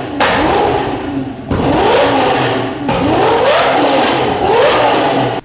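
A car engine revved hard about four times through a loud exhaust, its pitch climbing and dropping with each rev.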